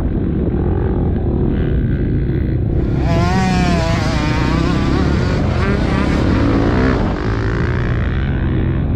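KTM motocross bike's engine running under a heavy low rumble, its revs rising and falling quickly as the throttle is worked, most clearly in the middle stretch.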